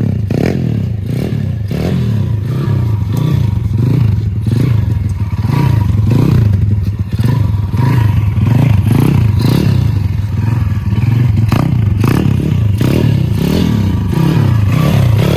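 Pit bike engine revved in quick, repeated throttle blips, its pitch rising and falling over and over, with scattered sharp clattering knocks.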